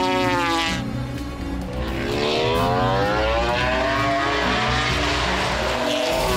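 Suzuki MotoGP prototype racing motorcycle's four-cylinder engine on a circuit, revs dropping, then rising steadily for about three seconds as it accelerates, and falling again near the end.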